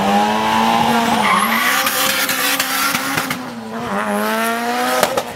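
Drag-racing car engine held at high revs with tyre squeal, its pitch dipping briefly twice. A few sharp pops come near the end.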